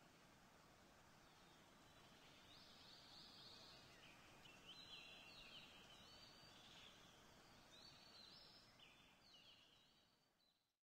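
Faint birdsong, repeated short chirping phrases over a soft outdoor background hiss, fading out and cutting off near the end.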